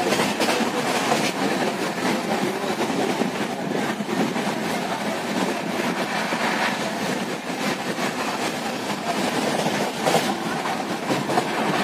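Running noise of a moving express train heard from inside a sleeper coach: a steady rumble and rattle of the carriage on the track, with a few faint knocks.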